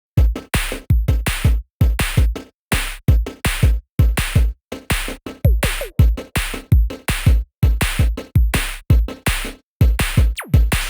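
Background electronic music with a drum-machine beat: deep kick hits and sharp percussion in short repeating clusters, with brief gaps between them.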